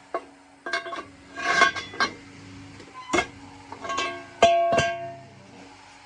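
Plucked string instrument music, guitar-like, with single notes struck at uneven intervals, each ringing on.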